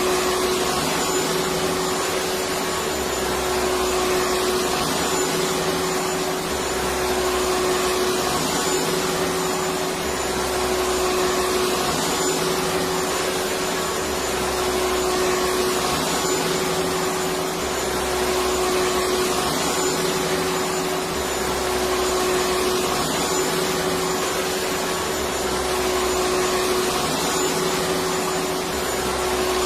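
Electric vacuum cleaner running steadily: a continuous rushing hiss with a steady motor hum, and a low throb that repeats about every four seconds.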